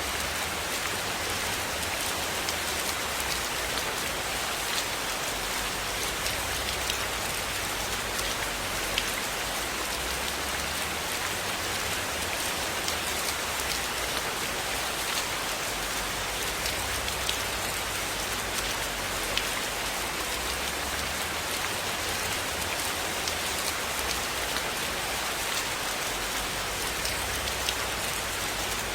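Steady rainfall: an even hiss of rain with many scattered sharp drop ticks throughout.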